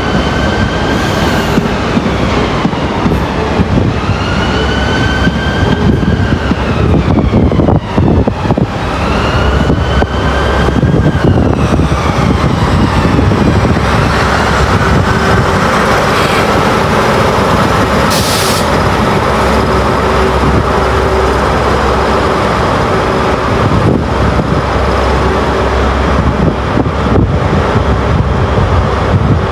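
A train moving through the station at close range, its wheels squealing in three rising-and-falling squeals in the first twelve seconds, then running on with a steady whine.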